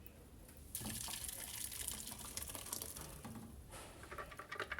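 Liquid pouring steadily for about three seconds, then stopping, followed by light clicks and clatter.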